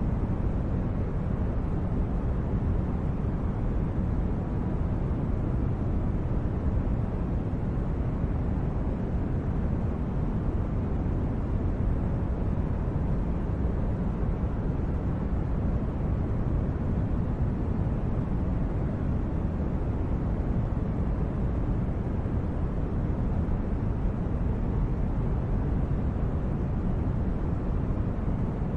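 Steady, even low rumbling noise with no breaks or changes, heaviest at the low end: a background noise bed like brown noise.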